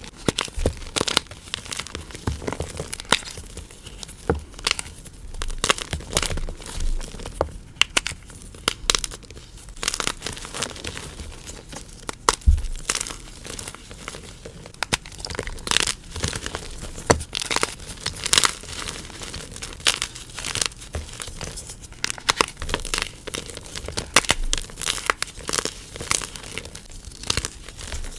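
Soft gym chalk cubes being crushed, crunching with many quick, irregular crackles.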